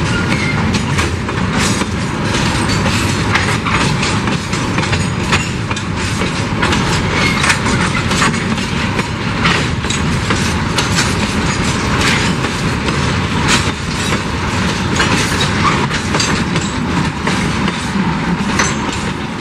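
Empty gondola wagons of a freight train rolling past close by, their wheels clacking over rail joints with a steady rumble. The sound drops away right at the end.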